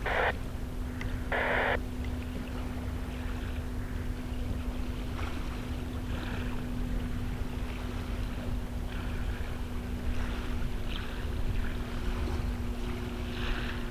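Wind buffeting the microphone over a steady low rumble and a constant hum, with two short hissy bursts of static in the first two seconds.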